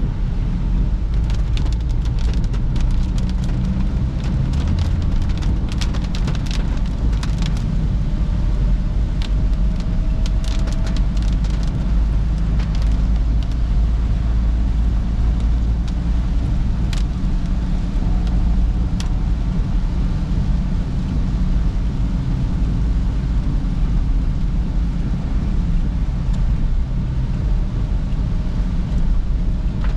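Perodua Bezza heard from inside the cabin while driving in rain: a steady low rumble of engine and tyres on the road, with irregular sharp ticks of raindrops hitting the car, thickest in the first half.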